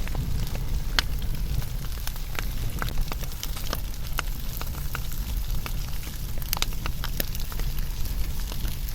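Wood fire burning, with many sharp, irregular crackles and pops over a steady low rumble.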